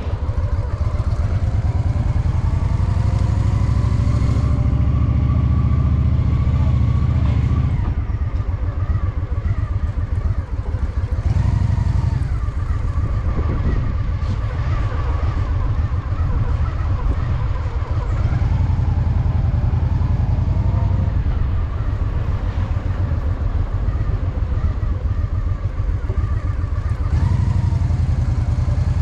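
Honda Shadow VT750's V-twin engine running steadily under way, its pitch rising and falling several times as the throttle and gears change.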